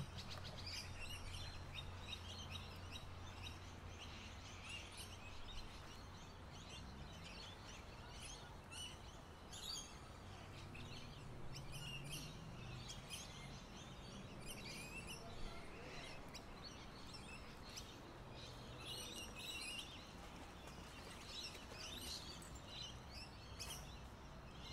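Faint outdoor ambience: birds chirping and calling in many short, separate notes, over a low steady rumble.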